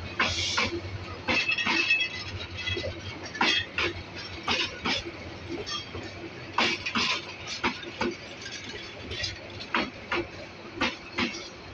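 Bangladesh Railway intercity passenger coaches rolling slowly past, their wheels clanking and clinking irregularly over the track above a steady low rumble, with a brief high metallic ring about a second and a half in.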